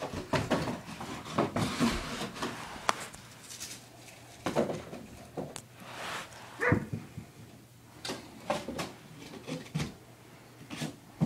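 Packaging and vacuum parts being handled during unboxing: an irregular string of knocks, clicks and short rustles.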